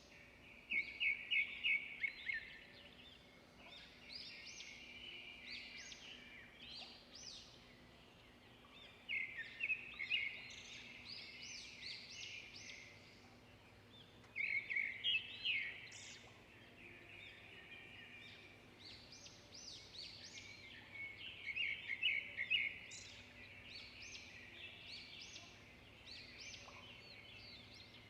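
Songbirds singing: a loud, rapid trilling phrase comes four times, a few seconds apart, over softer scattered chirps and calls.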